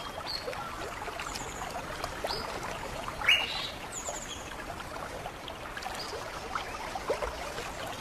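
Scattered short bird calls over a steady hiss of running water; a rising call a little over three seconds in is the loudest.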